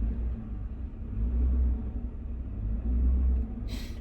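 Truck engine running as the truck rolls slowly forward, with low rumble that swells twice, and a short hiss near the end.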